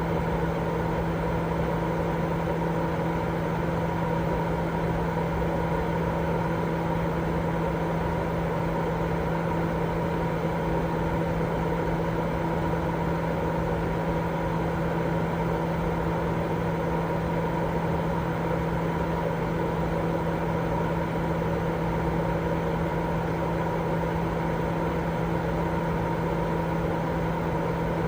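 Continuous, unchanging white-noise sleep sound: an even rushing hiss, fuller in the low and middle range than the top, with a steady low hum and a few faint steady tones running through it.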